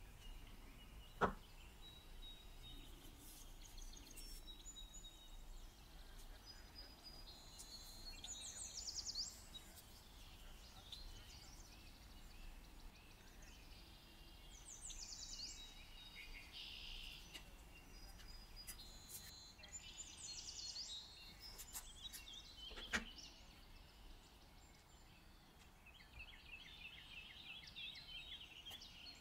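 Faint high bird chirps and trills, with two sharp knocks, one about a second in and another later on.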